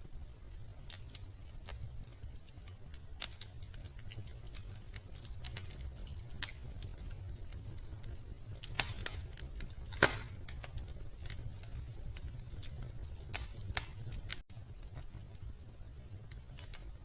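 Wood fire crackling in a fireplace: a steady low rumble of burning with scattered sharp pops, the loudest about ten seconds in.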